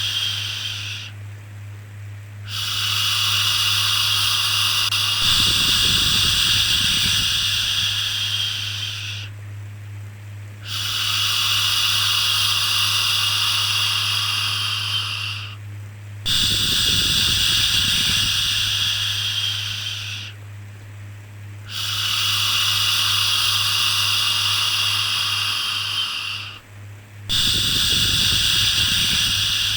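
Long, repeated 'shhh' shushing sounds of the kind used to soothe a baby. Each lasts about four to five seconds, with a brief gap between them, about five in all, over a steady low hum.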